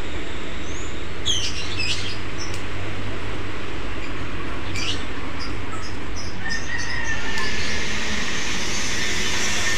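A few short bird chirps over a steady low outdoor rumble; about seven seconds in, a steadier hiss swells up and stays.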